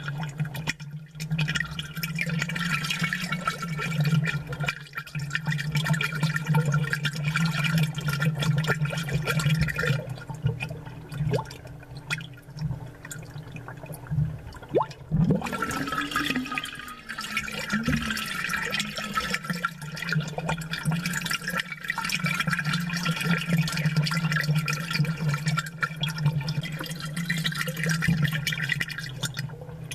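Aquarium air bubbles gurgling and popping in the water over a steady low hum from the aerator pump. The bubbling fades for a few seconds about a third of the way in, then starts up again.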